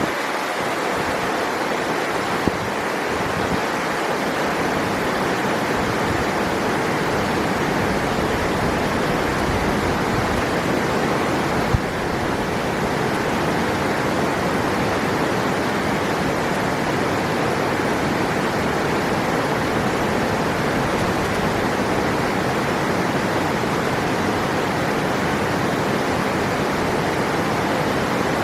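River water rushing steadily over rocks, an even, unbroken flow with no change, and a faint tick about twelve seconds in.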